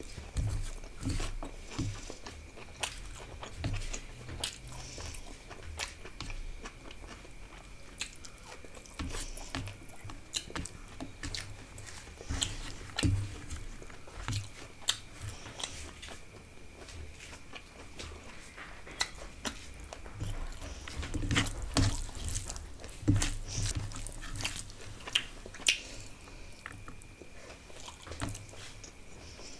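Close-up sounds of a person eating rice and curry: wet chewing with frequent lip smacks and sharp mouth clicks, irregular throughout.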